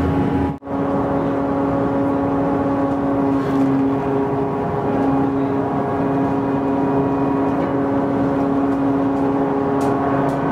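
Steady engine drone of a car ferry, a constant pitched hum with no rhythm; it cuts out for an instant about half a second in.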